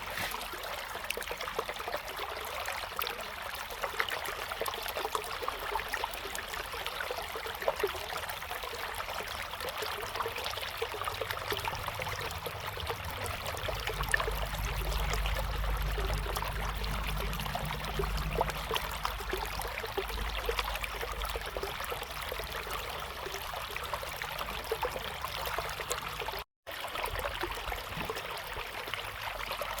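River water flowing and babbling steadily, full of small splashes, with a low rumble swelling up in the middle. The sound drops out for a split second near the end.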